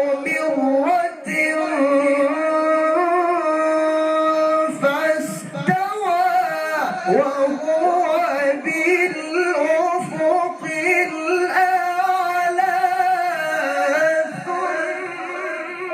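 A male reciter chanting the Quran in melodic tilawah style: long held notes with wavering ornaments, drawn out over one melismatic phrase, broken by brief pauses for breath.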